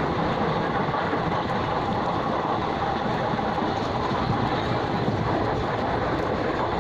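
Passenger train running at speed, heard from inside the carriage: a steady rumble of wheels on the rails mixed with rushing air, with a few faint ticks.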